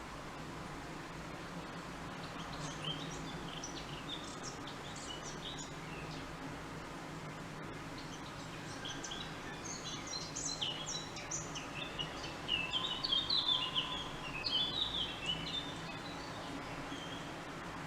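Small songbirds chirping in short scattered calls, busiest and loudest about two-thirds of the way through, over a steady low background hum.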